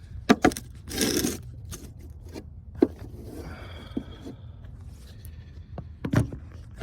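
Scattered sharp clicks and knocks, with one short scrape about a second in, from hands and tools working at a corroded negative battery terminal that is stuck on its post.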